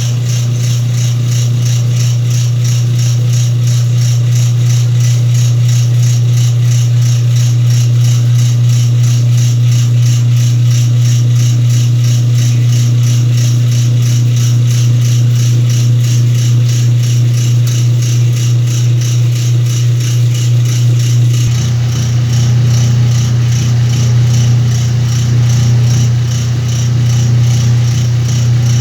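Whirlpool washing machine running with a steady motor hum and a fast, continuous rattle. About 21 s in, the running sound changes and grows fuller and deeper.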